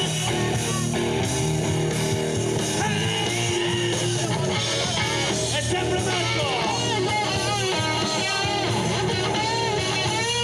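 Rock band playing live, with electric guitar; in the second half the guitar repeats a bent note over and over.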